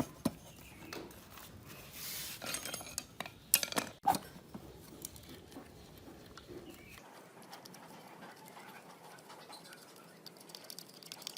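Scattered clicks and knocks, with a short scraping stretch about two seconds in: small tools and metal engine parts being handled at a workbench.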